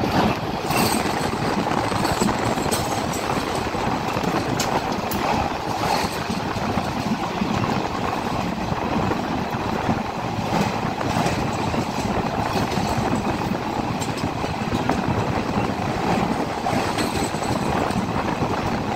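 Passenger train's wheels running on the track, heard from onboard: a steady rumble with scattered sharp clicks.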